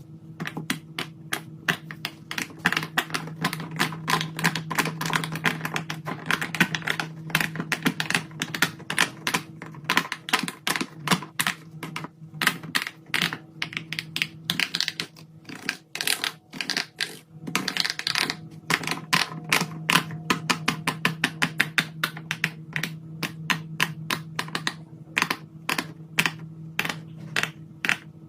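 Rapid, irregular clicking and tapping from fidget toys being handled, over a low steady hum.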